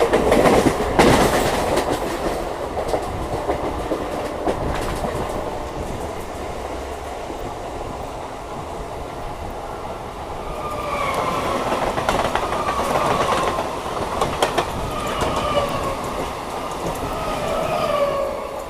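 Suburban local train running, its wheels clattering over the rail joints, loudest in the first couple of seconds. In the second half comes a run of short, falling, high squeals repeating about once a second.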